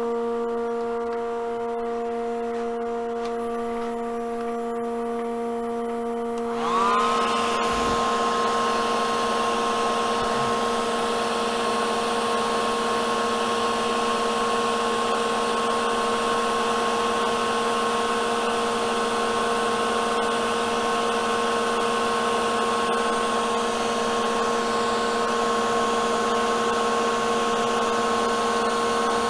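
A steady machine hum, then about seven seconds in a hand-held hair dryer switches on: its fan whine rises briefly and settles to a steady pitch over a rush of blown air, and keeps running, drying the water-based paint.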